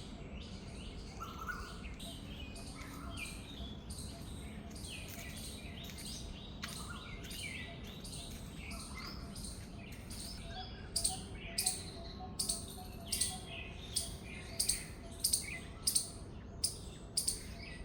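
Several birds chirping and twittering. From about eleven seconds in, one bird repeats a loud, sharp call about every two-thirds of a second.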